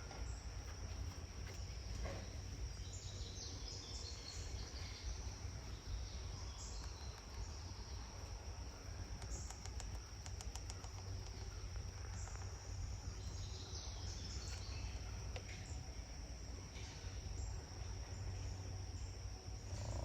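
Summer outdoor ambience: a steady high-pitched buzz of insects, with a few short bird chirps now and then over low background noise.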